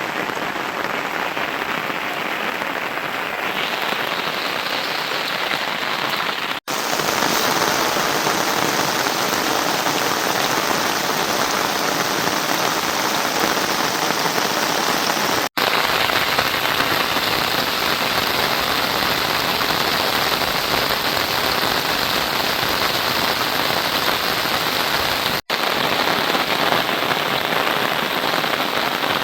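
Steady rain falling, an even hiss, broken three times by a momentary gap.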